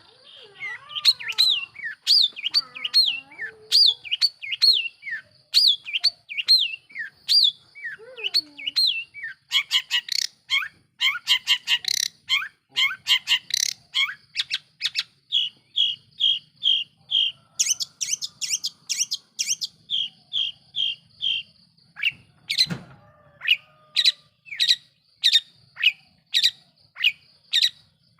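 Long-tailed shrike (cendet) singing loudly in a varied song of sharp, repeated calls: sliding notes first, fast rapid runs in the middle, then an even series of short chips. A single knock comes late on.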